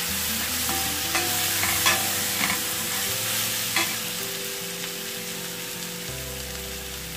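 Tomatoes, cashews and whole spices sizzling in hot oil in a stainless steel pan. During the first few seconds a slotted metal spoon stirs them, with a few scrapes and clicks against the pan.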